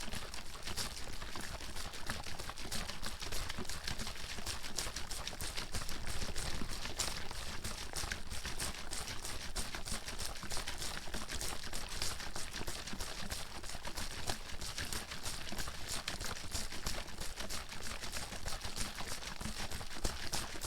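Water bottle being shaken continuously, water sloshing and splashing against the inside in a rapid, dense clatter without pauses.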